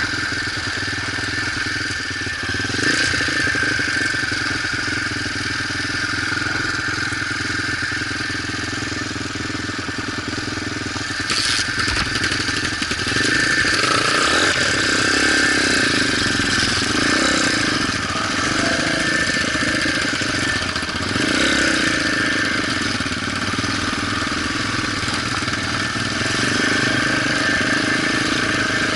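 Motorcycle engine running steadily, a little louder from about halfway through.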